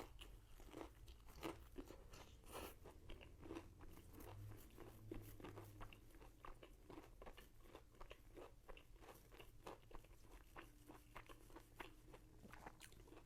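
A person eating crunchy food close to the microphone: many soft, irregular crisp crunches and chewing sounds.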